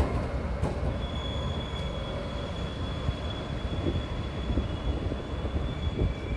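Taiwan Railway EMU530 electric commuter train rolling in to stop at a station: a low rumble of wheels on rail, with a high, steady brake squeal setting in about a second in.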